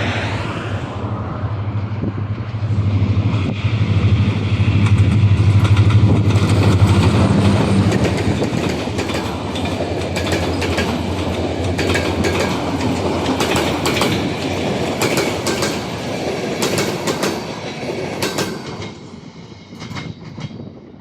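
Passenger train passing close by: the locomotive's steady low hum for the first several seconds, then the carriages' wheels clicking rhythmically over the rail joints, fading as the train moves away near the end.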